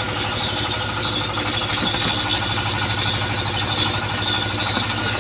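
Tugboat engine idling steadily with a fast, even throb.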